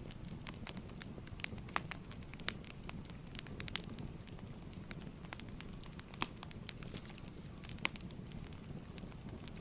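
Wood fire crackling in a fireplace: irregular sharp pops and snaps over a soft steady rumble of the flames.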